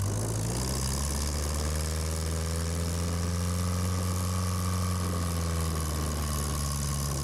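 Off-road vehicle engine running steadily at low revs, its pitch rising a little through the middle and easing back.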